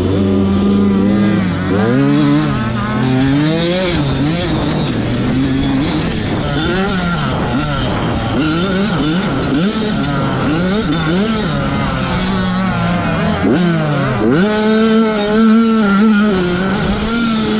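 Two-stroke 85cc motocross bikes racing, engines revving up and dropping again and again through gear changes, with several engine notes overlapping at times.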